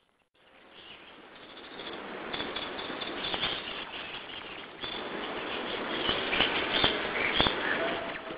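Small birds chirping over a steady background hiss, with a couple of sharp clicks near the end.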